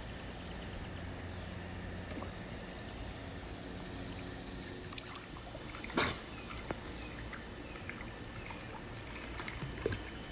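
Steady trickling water, with one loud, sharp sound about six seconds in and a smaller one near the end.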